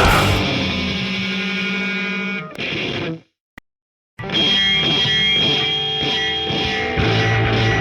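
Punk rock recording: one song ends on a held, ringing distorted electric guitar chord, then about a second of silence, and the next song opens with distorted electric guitar and a steady feedback whine before the full band comes in near the end.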